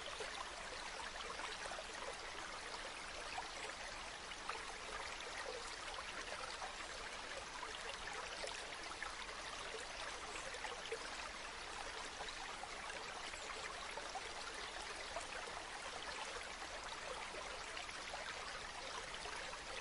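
A stream or small river flowing steadily, with a fine splashing and trickling over its surface.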